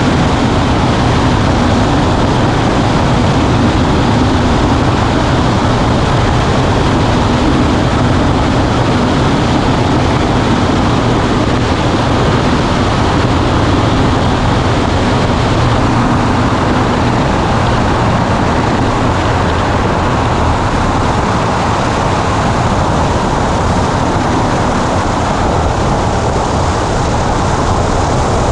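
Cockpit noise of a Cessna 140A light aircraft in flight: the engine and propeller drone at a steady, constant pitch under the rush of air over the cabin.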